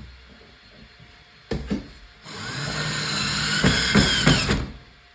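Power drill driving a screw into the wooden bed frame, running for about two and a half seconds as it spins up, with a few sharp knocks near the end; a couple of handling knocks come just before it starts.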